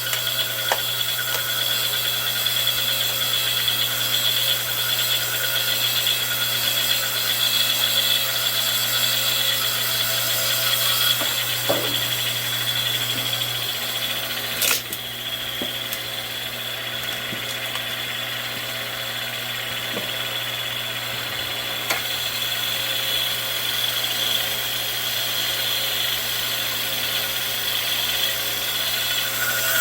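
Hydraulic log splitter's power unit running steadily with a constant hum and whine, with a few short knocks as it works.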